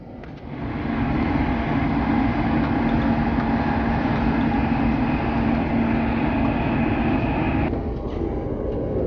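Elizabeth line Class 345 train running, heard from inside the carriage: steady running noise with a constant low hum and a higher whine. It swells about half a second in, and the higher part drops away near the end.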